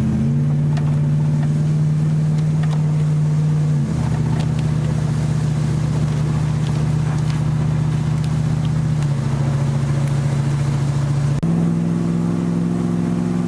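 Truck engine running steadily while driving, its pitch stepping to a new level a few times, with a few faint clicks over the drone.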